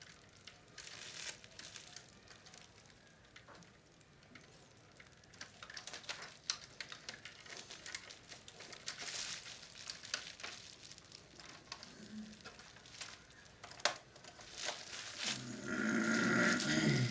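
Scattered small clicks, taps and rustling of hands working plastic parts and tools during a teardown, with a louder, denser low sound for about two seconds near the end.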